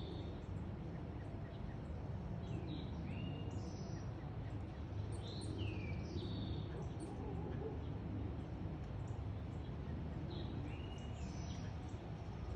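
Wind buffeting the microphone as a steady low rumble, with birds giving short, high chirps and down-slurred whistles every second or so.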